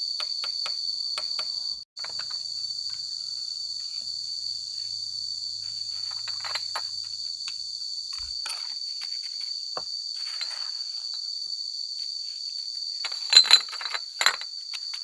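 Steady high-pitched insect chorus, with scattered small clicks and knocks and a few louder sharp clinks near the end, typical of glass bottles knocking against each other as they are laid into a mortar wall.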